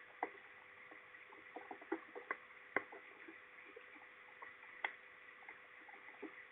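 Raindrops hitting close to the microphone in irregular sharp ticks, some louder than others, over a faint steady hiss and electrical hum.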